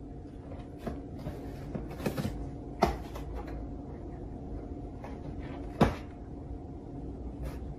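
A few scattered light knocks and clicks over a steady low hum; the two loudest come about three and six seconds in.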